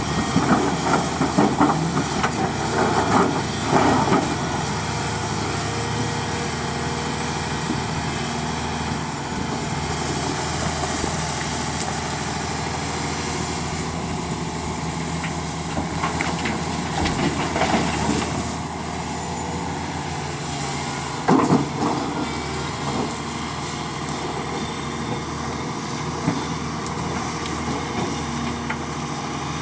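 Heavy diesel machinery running steadily: a hydraulic excavator working beside a dump truck. Blasted rock clatters loudly into the truck's steel bed in bursts: over the first few seconds, again a little past halfway, and once more about two thirds through.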